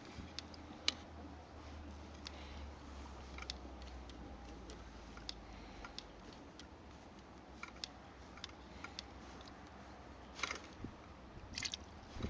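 Faint, scattered light clicks and taps, irregular and a few a second at most, over a low steady rumble.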